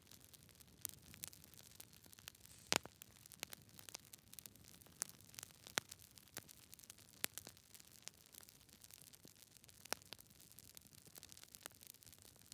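Wood fire crackling in a fireplace: irregular sharp pops and snaps from the burning logs over a soft hiss, the loudest pop about three seconds in.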